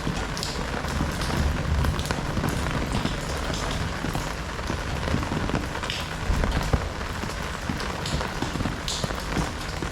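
Heavy rain falling steadily, a dense hiss with many individual drops pattering and a few louder drop hits standing out.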